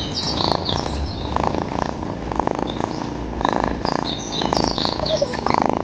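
A pet cat purring close up, in a rhythmic run of breaths.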